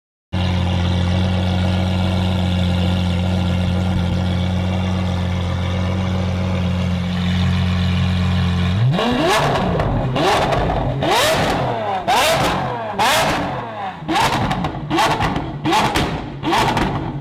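Lamborghini Aventador's naturally aspirated V12 idling steadily, then revving up about halfway through. After that the engine note rises and cuts off sharply in quick succession, about twice a second, with sharp cracks between the rises.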